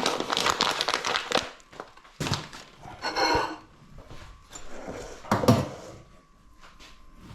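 Kitchen handling sounds: a rapid clatter of a spoon against a mixing bowl at first, then a few scattered clinks and rustles and one dull thunk about five seconds in.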